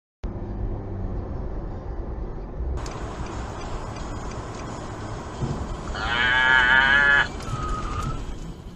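Steady road and engine noise, then a loud vehicle horn blast of about a second some six seconds in, and a short, higher horn toot just after it.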